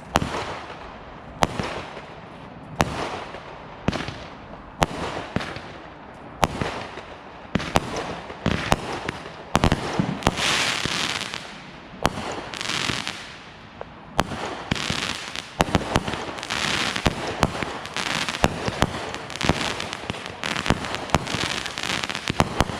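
Consumer fireworks going off: sharp bangs about every second and a half at first, then crackling and hissing stretches, and from about halfway a rapid run of bangs in quick succession.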